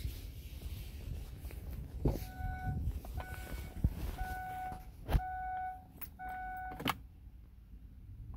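Car's dashboard warning chime beeping five times, about once a second, with a few sharp clicks among the beeps.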